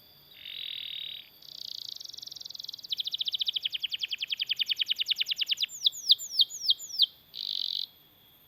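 Domestic canary singing a song of rolled phrases. It opens with a short buzzy roll and a rapid trill, then a long run of quick repeated notes at about eight a second. These are followed by about six falling whistled notes and a brief final roll.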